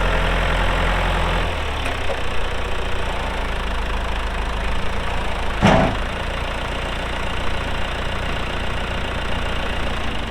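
John Deere 2555 tractor's diesel engine running steadily, a little heavier for the first second and a half, with a single sharp clunk about five and a half seconds in.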